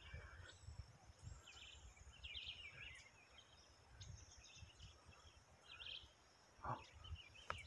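Near silence: faint, scattered bird chirps over a low, uneven rumble.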